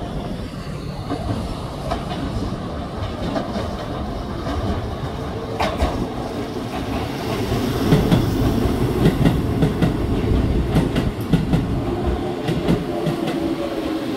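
Chiba New Town Railway 9100 series electric train pulling into a station: a steady rumble, then from about six seconds in the wheels clacking over rail joints in quick rhythmic beats as it arrives, with a faint whine that sits lower near the end as the train slows.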